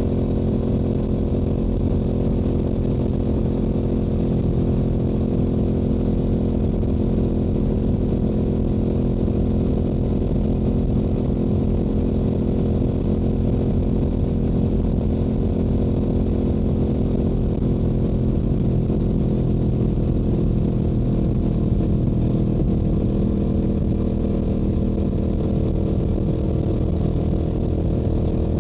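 Stock Yamaha YZF-R7's parallel-twin engine and exhaust running at a steady highway cruise, the engine note holding an even pitch.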